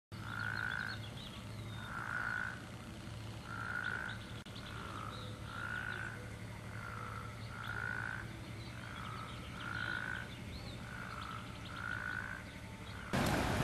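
Frogs calling outdoors, one call about every second, with fainter high chirps above them and a steady low hum underneath. Near the end a loud, noisy rush cuts in abruptly.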